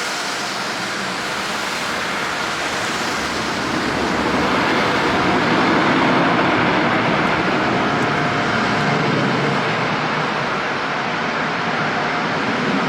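Conveyor tunnel car wash equipment running around a car, heard from inside the cabin: a steady rushing noise that grows louder about four seconds in.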